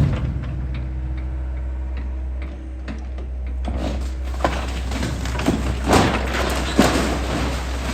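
Excavator's diesel engine running steadily, with several sharp cracks and snaps of wood breaking over the second half.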